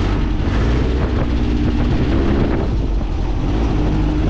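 Volkswagen 1600cc air-cooled flat-four engine of a dune buggy running loudly, its revs rising and falling as it is driven.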